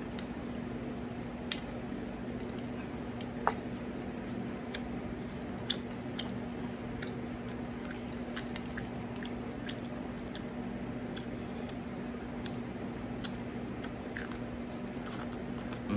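A person biting and chewing crispy fried chicken close to the microphone: wet, squishy mouth sounds with scattered crackles of the breading, over a steady low hum.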